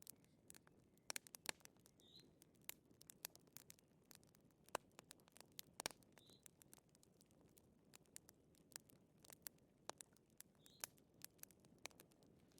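Wood fire crackling: irregular sharp pops and snaps over a soft hiss, with a faint short high note every few seconds.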